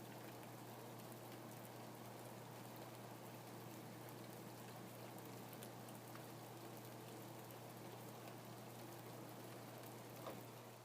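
Faint, steady rain, with a few individual drops ticking now and then.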